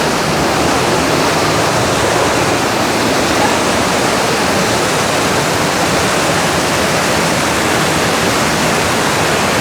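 Sgwd yr Eira waterfall heard close up: a steady, loud rush of falling water.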